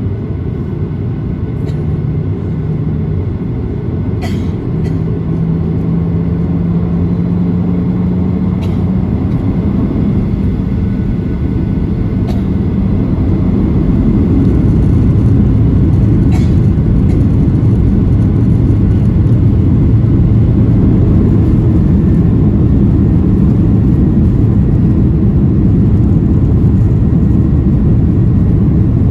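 Cabin noise of a Boeing 737-800 with CFM56 engines: a loud, low rumble that builds over about the first fifteen seconds and then holds steady. An engine hum rises slightly in pitch during the first several seconds, and there are a few faint clicks.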